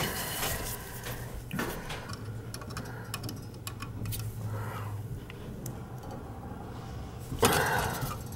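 Small clicks and taps of hand tools and wire terminals being worked at a gas valve's wiring, with a louder clatter near the end over a steady low hum.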